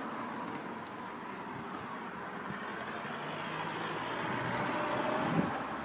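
Level crossing audible warning alarm sounding faintly over a steady rumble of vehicle noise that grows slowly louder. The alarm is faulty, 'messed up'.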